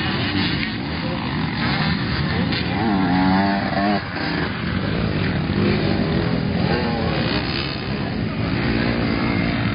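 Motocross dirt bikes running, one engine revving up to a rising whine that cuts off sharply about four seconds in, with more revving later.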